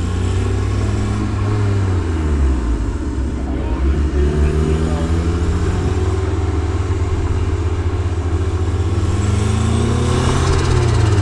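Turbocharged Honda B16 1.6-litre four-cylinder engine in a Civic running under the driver's foot, its revs falling in the first couple of seconds and climbing again toward the end.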